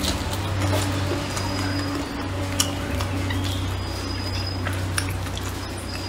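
Close-up chewing of braised pig's trotter, with wet mouth sounds and a few sharp clicks over a steady low hum.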